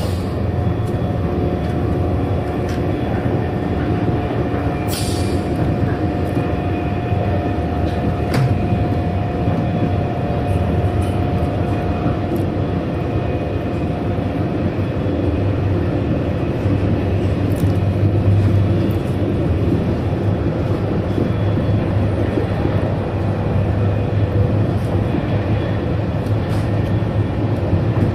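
Inside a TGV Duplex high-speed train running at speed: a steady low rumble of running noise. A faint steady whine sits over it and fades out about halfway through, and there are a few brief clicks.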